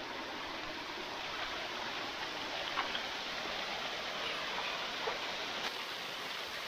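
Small stream of water running, a steady rush.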